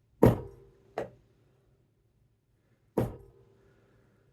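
Hammer striking a jewelry design stamp on sterling silver sheet: three sharp metallic strikes with a short ring after each, the second lighter. Each blow presses a birch-bark texture line into the silver.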